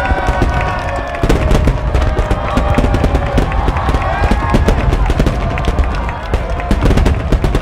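Large aerial fireworks barrage: heavy shell bursts rumbling continuously, with many sharp cracks a second.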